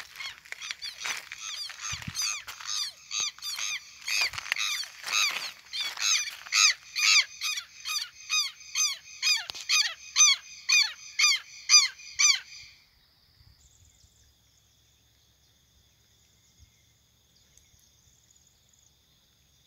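A bird calling: a long series of loud, repeated pitched notes, about two a second, growing louder and then stopping abruptly about twelve seconds in.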